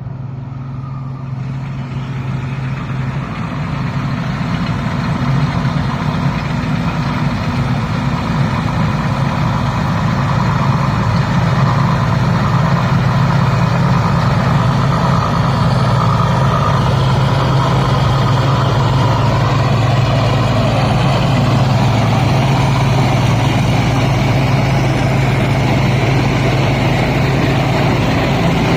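Diesel engine of a Thai Seng Yont 'Chao Phayu' rice combine harvester running steadily, growing louder over the first ten seconds or so and then holding an even level.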